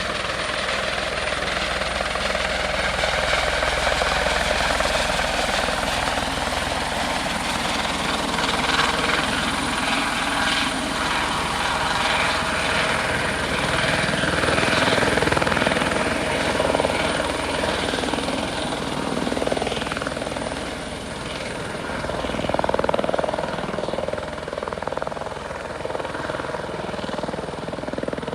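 Airbus H120 (EC120B) helicopter running, its Arrius turboshaft and rotors giving a continuous dense rush with a thin steady high whine over it. The level swells and eases slightly but never drops away.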